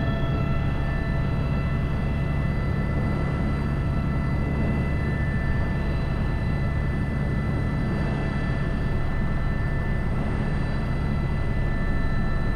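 Airbus H125 helicopter in flight, its single turboshaft engine and rotor making a steady, unbroken drone with several constant high whining tones over a low rumble.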